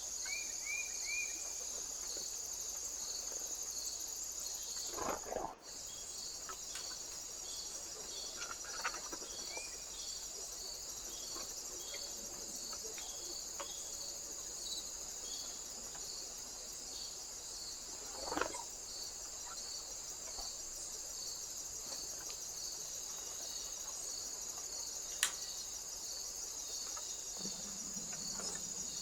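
Insects chirping in a steady high-pitched chorus, with a regular pulse about one and a half times a second, and a few faint short chirps near the start. About five seconds in, the sound drops out for an instant.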